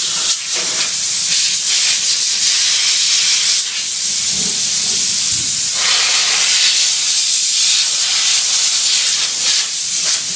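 A steady, loud hissing spray at a Haas CNC machine, the kind made by a coolant or air blow-off jet, with brief fluctuations and a lower rumble around the middle.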